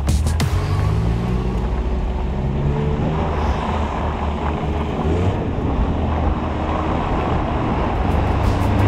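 Porsche 911 (997) flat-six engine revving up and falling back several times under hard driving, over a steady rush of noise.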